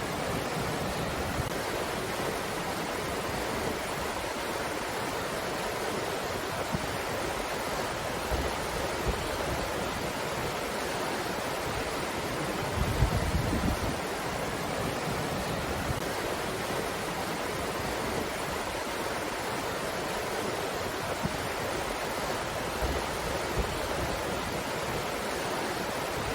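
Breeze blowing steadily as an even rushing noise, with a brief low rumble of a gust buffeting the microphone about halfway through.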